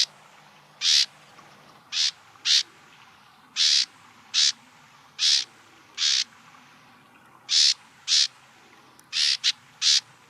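A Bewick's wren giving short, harsh calls over and over, roughly one or two a second at irregular gaps, with a quick run of several calls near the end.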